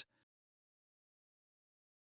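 Near silence: a digital pause with no sound, just after a synthesized voice finishes a sentence.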